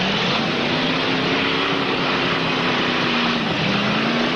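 Demolition derby cars' engines running hard amid dense engine noise. One engine is held at high revs, sags briefly about three and a half seconds in, then climbs again.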